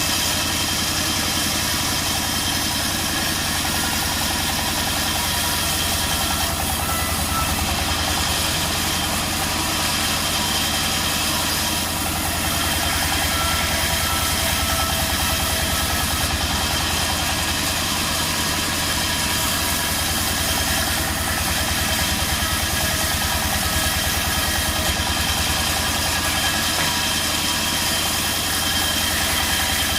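Sawmill machinery running steadily, a constant engine-like drone that does not change.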